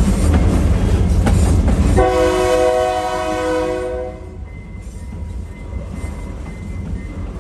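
Train wheels rumbling and clattering on the rails. About two seconds in, a train horn blows one steady chord for about two seconds, and the rumble then goes on more quietly.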